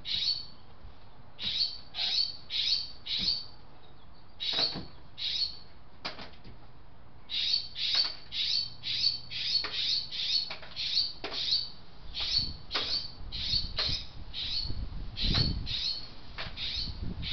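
A bird chirping over and over: short high chirps, about two to three a second, in runs with brief pauses, then a steady unbroken run from about seven seconds in.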